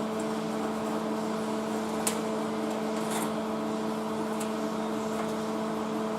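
Steady machine hum at an even level, with a few faint light ticks, about two seconds in, three seconds in, and just over four seconds in.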